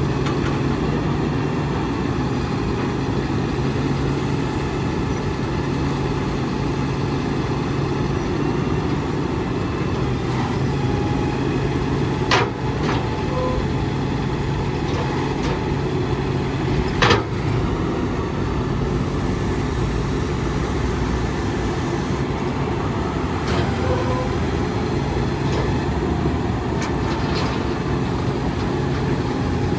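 Freightliner M2 truck's diesel engine running steadily with a constant low hum. Two sharp knocks or clacks come partway through, with a few fainter clicks.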